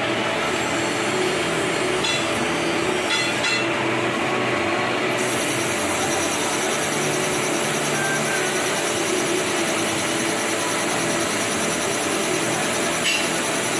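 A workshop machine tool running steadily, loud and continuous, with a high hiss joining about five seconds in.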